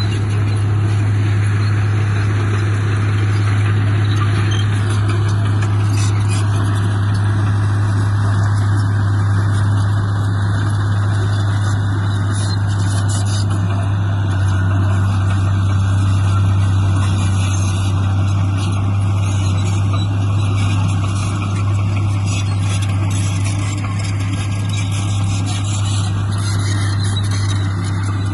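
Diesel engine of heavy earthmoving machinery running steadily at a constant speed, with a deep, unchanging hum and a rougher mechanical noise over it.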